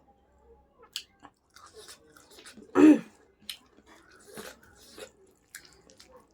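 Close-miked chewing and mouth sounds: wet smacks and short clicks, with one louder, pitched mouth sound about three seconds in.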